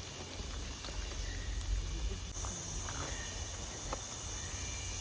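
Steady high-pitched insect chorus in the forest, growing louder about two seconds in, over a low outdoor rumble.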